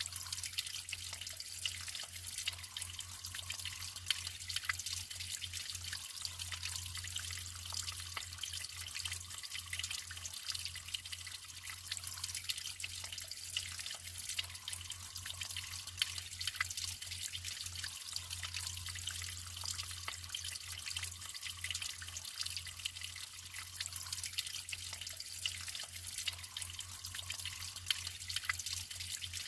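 Naturally flowing water trickling and splashing steadily: an even, bright hiss flecked with many small drips and splashes.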